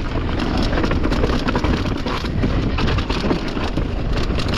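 Mountain bike riding along a dry, leaf-covered trail: tyres rolling over leaves and dirt with constant small rattles and clicks, and wind rushing over the microphone.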